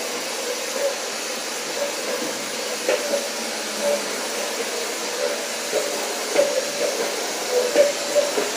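Vacuum cleaner running steadily, with a short click now and then.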